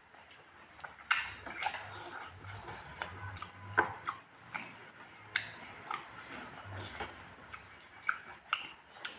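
A person chewing and eating pork close to the microphone, with irregular wet mouth smacks and clicks, several a second.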